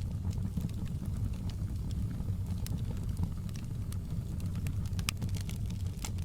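Wood fire burning with a steady low rumble and scattered sharp crackles and pops, one of the loudest about five seconds in.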